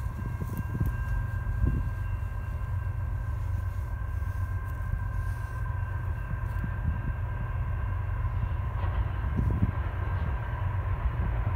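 Canadian National freight train led by GE ET44AC and ES44AC diesel locomotives approaching from far down the line: a low rumble with steady high-pitched tones held above it.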